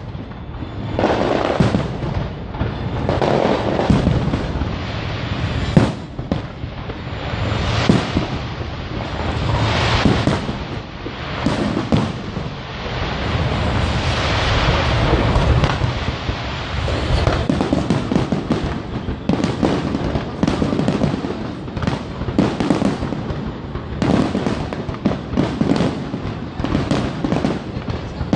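Aerial fireworks display: shells bursting in quick succession, sharp bangs over long stretches of crackling and hissing.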